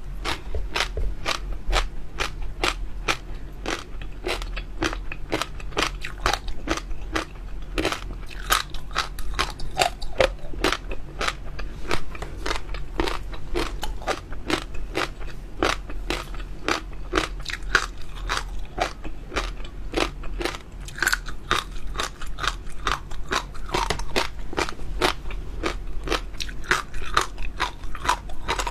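Close-miked chewing of crunchy jelly pearls with water-chestnut bits inside: rapid, irregular crunches and crackles, several a second, over a faint steady low hum.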